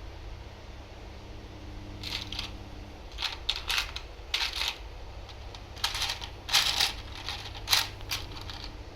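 Irregular short scraping and rustling sounds, a dozen or so quick strokes, over a steady low hum.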